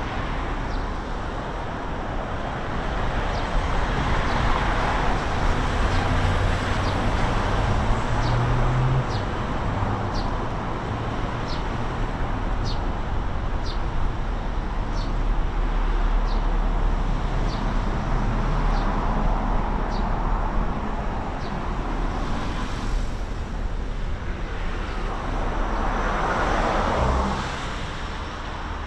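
Steady city road traffic, swelling as vehicles pass and easing again. A faint, high, falling chirp repeats about once a second through much of it.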